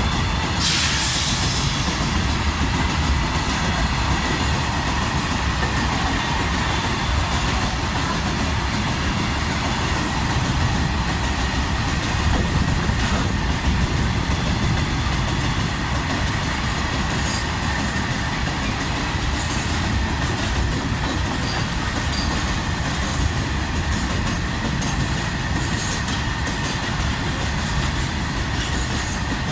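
Goods train of BOXNHL covered wagons running through a station without stopping: a loud, steady rumble of wagons rolling past, with faint wheel clatter and a thin steady whine.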